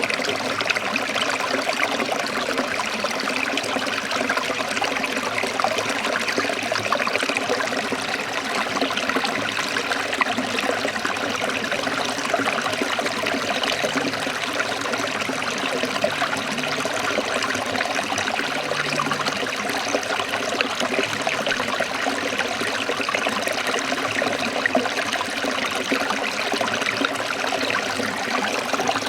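Forest stream trickling and running steadily.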